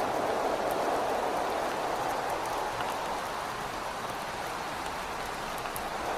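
Rain and wind on a window: a steady hiss of rain with scattered fine drop ticks, and a band of wind that eases off through the middle and swells again near the end.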